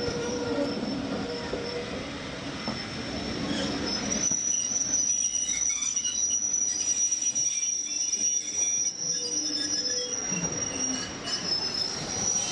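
Railway carriage wheels squealing against the rails on a moving steam-hauled train, over a rumbling run of the train. A high, steady squeal sets in about four seconds in and holds until near the end.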